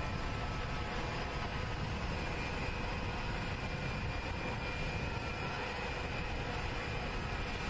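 Air Force One's jet engines (a VC-25A, the military Boeing 747) running steadily, a constant whine of several high, steady tones over an even noise that does not change.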